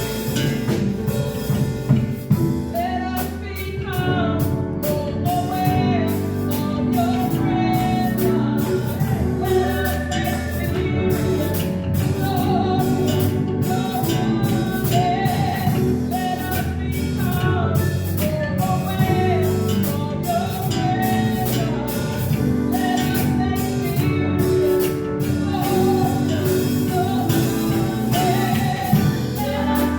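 Live praise-and-worship band playing, with singers over drums and instruments and a steady beat.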